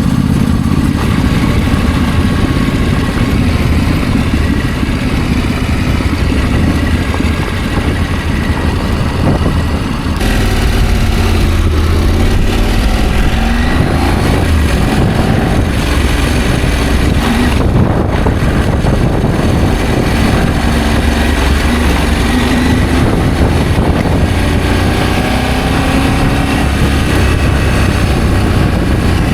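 Adventure motorcycle being ridden, its engine running under a heavy low rumble. The engine pitch rises and falls several times as the bike speeds up and slows.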